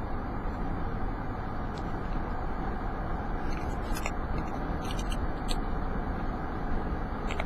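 Steady road and engine noise from a car on the move, heard from inside the cabin, with a few faint clicks.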